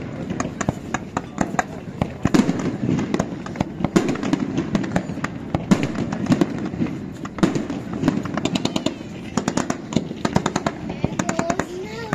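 Fireworks going off: a steady run of sharp bangs and pops, with quick strings of crackling about two-thirds of the way through and again near the end, over crowd chatter.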